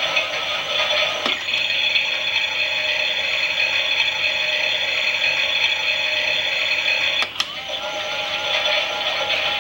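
Toy Klein Miele washing machine's small motor and plastic gears whirring as the drum turns. About a second in a click changes the sound to a higher, steadier whine, and another click just after seven seconds brings back the lower, wavering whir.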